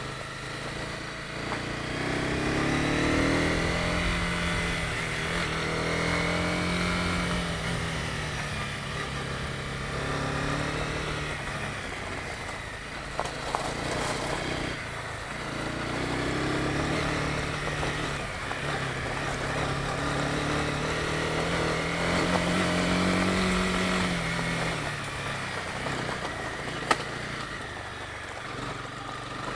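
Honda CB250R's single-cylinder four-stroke engine running under way, its pitch rising and falling several times as the throttle is opened and closed. Two brief sharp clicks near the middle and near the end.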